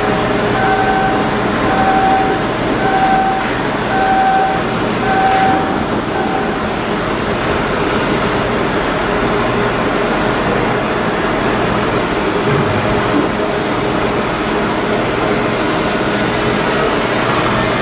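Loud, steady machinery noise, with a beeping alarm that sounds five times, about once a second, during the first five or six seconds.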